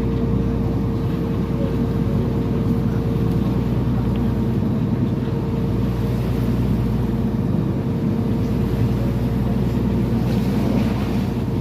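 Tour boat's engine running steadily while under way, a constant low drone with a steady hum above it.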